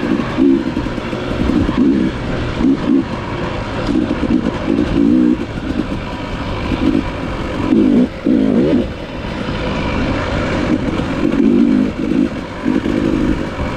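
Dirt bike engine running under constantly changing throttle, revving up and dropping back again and again.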